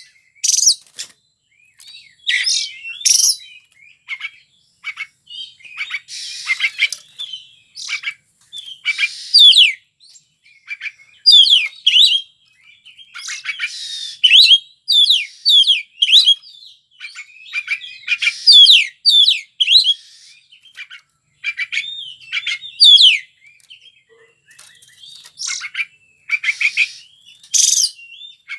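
Oriental magpie-robin (kacer) singing continuously in full voice: fast, varied phrases of clear gliding whistles mixed with harsh rasping notes, in bursts with short pauses between them.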